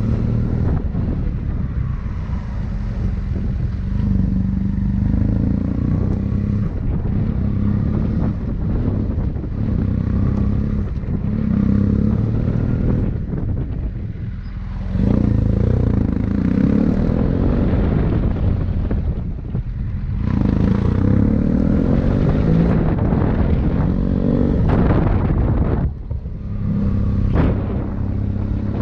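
Motorcycle engine running under way, its pitch rising and falling as the throttle opens and closes, with brief drops in between.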